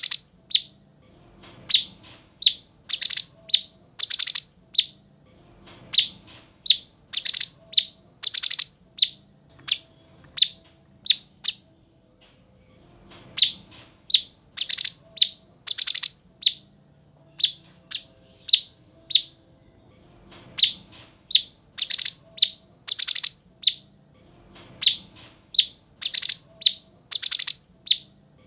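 Cucak cungkok singing: loud, sharp, whistled chirps, repeated in quick phrases of a few notes every second or two, with a short break about ten seconds in.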